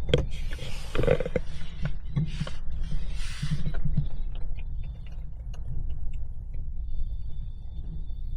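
Low, steady rumble of a Jeep heard from inside the cabin as it sits in slow traffic, with a few soft hissing swells in the first half and scattered small clicks.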